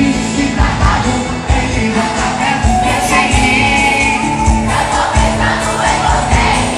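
Live pop concert music: a band playing with a steady drum beat, and many voices singing along.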